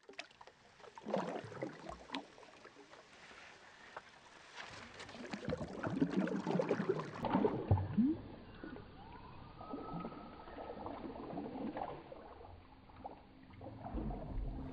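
Irregular splashing and sloshing of water.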